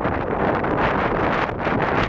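Strong wind buffeting the camera microphone: a loud, steady rumble of wind noise.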